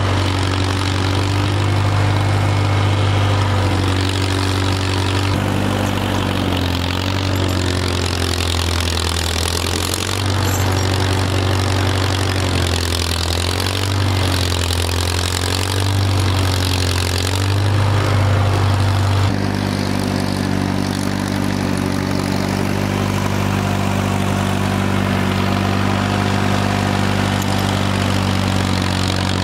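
Engine of a snow-moving vehicle running continuously. Its pitch dips and rises between about six and nineteen seconds in, then changes suddenly and holds steady.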